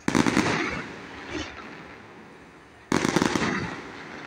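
Fireworks display going off: two volleys of rapid popping bangs, one right at the start and another about three seconds in, each dying away over about a second.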